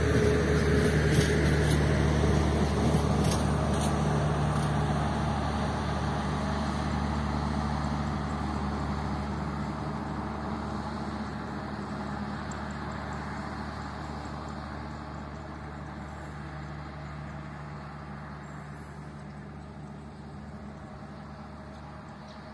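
Passenger train rolling past and away: wheel-on-rail rumble with a few clacks in the first few seconds, then a steady low drone that fades gradually as the train moves off into the distance.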